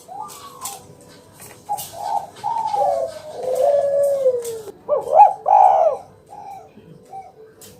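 Spotted dove (tekukur) cooing: a phrase of several low, wavering coos that bend in pitch, louder toward the end, followed by a few softer notes.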